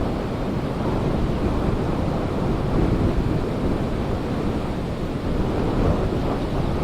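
Ocean surf rushing on the shore, with wind noise on the microphone: a steady, unbroken wash of noise and a low rumble.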